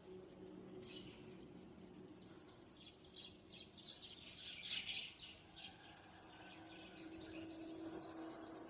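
Birds chirping: a dense run of rapid, high chirps through the middle, then a few clearer whistled notes near the end.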